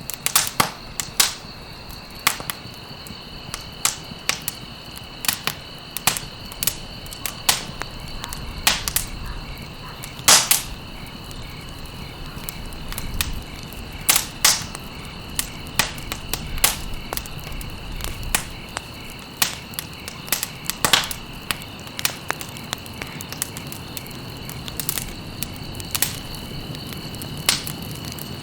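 Campfire of burning stalks crackling, with irregular sharp pops over a steady hiss of flame; the loudest pops come about 10 and 14 seconds in. A steady high-pitched trill runs behind the fire.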